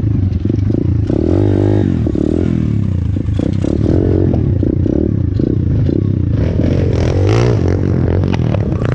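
Single-cylinder four-stroke 125cc pit bike engine under way on a dirt track, revving up and down repeatedly as the throttle is worked, with a steady clatter and rattle of the bike over rough ground.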